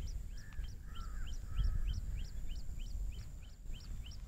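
A bird repeating short high chirps at a quick, even pace, about six a second, alternating between two pitches. In the first two seconds a few lower warbled calls join in. A low wind rumble runs underneath.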